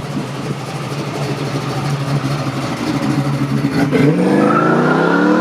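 Car engine running, then revving up about four seconds in, its pitch climbing steeply as the car accelerates hard.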